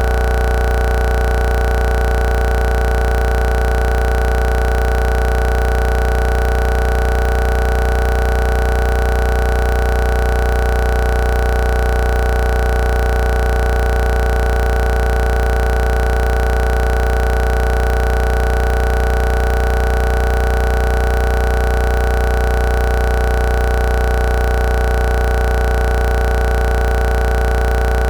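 A steady, unchanging drone: a strong low hum with several fixed higher tones above it, and no bangs or other breaks.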